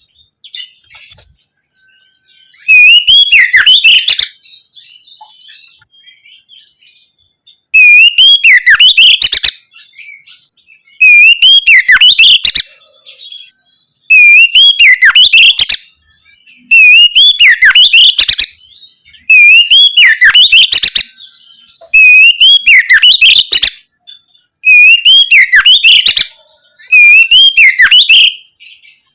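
Oriental magpie-robin (kacer) singing loud, open whistled phrases, the same phrase repeated about nine times with short pauses between. Softer twittering comes in the longer gap near the start.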